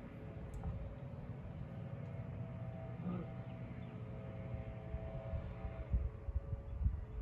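Motor oil glugging out of a plastic bottle as it is poured into the mower engine's oil fill, an irregular low gurgling with a few louder glugs near the end, over a faint steady hum.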